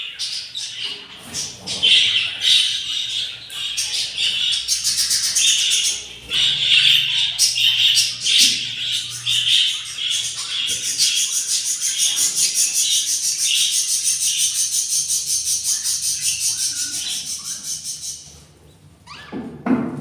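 Budgerigars chirping in a nest box, then a long run of fast, high-pitched pulsing calls lasting several seconds, typical of hungry nestlings begging to be fed. A short rustle near the end.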